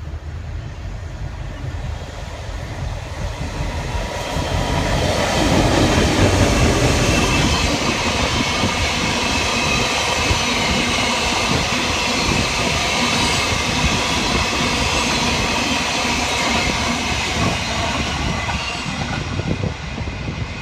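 A diesel-hauled freight train of empty cattle wagons passing close by. The locomotives build to their loudest about five seconds in, then the wagons' steel wheels roll steadily over the rails, easing off near the end as the train draws away.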